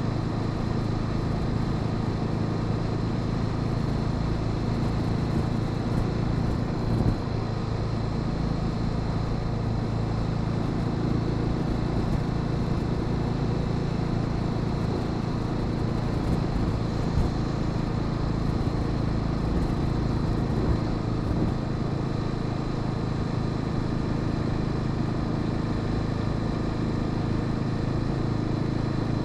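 Honda Sahara 300 single-cylinder motorcycle engine running at a steady speed under way, with road and wind noise, and a single brief knock about seven seconds in.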